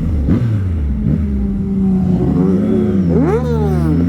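Motorcycle engine running while riding through traffic, with a quick rev that rises and falls about three seconds in.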